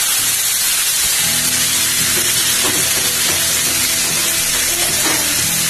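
Chicken pieces and potatoes frying in hot oil in a nonstick pan, a steady sizzle as they are stirred with a spatula. Background music comes in about a second in.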